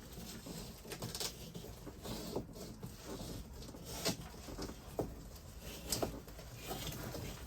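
Hands working adhesive Velcro strips in a truck bed: rustling with scattered light clicks and taps, a few sharper ones about four, five and six seconds in.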